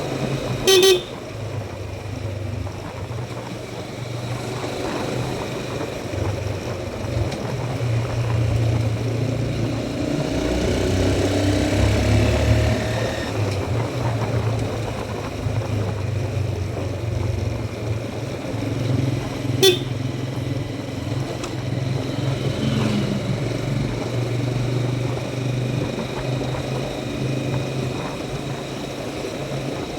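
Motorcycle engine running while riding, its pitch shifting with the throttle, with two short horn toots, one about a second in and another about two-thirds of the way through.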